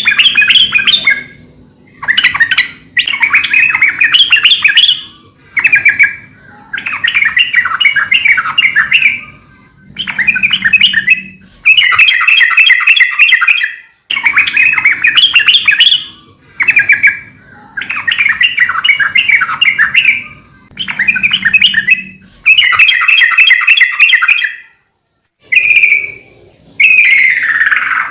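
Yellow-vented bulbul (trucukan) singing in a run of bubbly, chattering phrases, each a second or two long with short pauses between. Near the end one phrase slides down in pitch.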